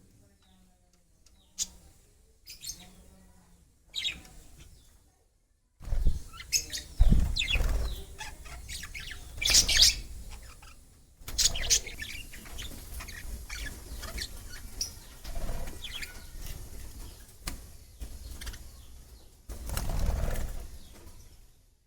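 Small cage birds chirping, with flurries of wing flapping. The sound breaks off abruptly a couple of times where short clips are joined.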